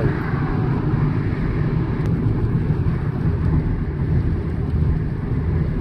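Steady road noise of a car driving along a highway: an even, low tyre and engine noise with no change in pace.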